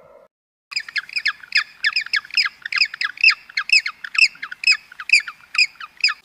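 Gentoo penguin chick begging to be fed: a fast, steady run of high squeaky peeps, about four a second, starting about a second in.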